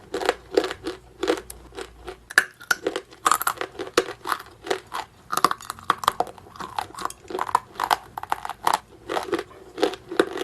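Close-miked chewing of a hard, dry edible mineral: a steady run of crisp crunches, about two or three a second.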